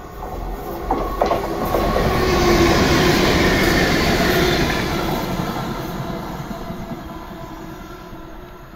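Class 334 electric multiple unit running through the station without stopping. A few clicks of wheels over rail joints come about a second in, then a rush of wheel and rail noise swells to its loudest around the middle and fades as the train goes away.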